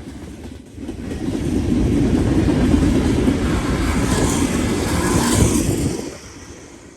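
A road vehicle passing by: a rumbling noise that swells over about two seconds, holds for a few seconds, then fades away.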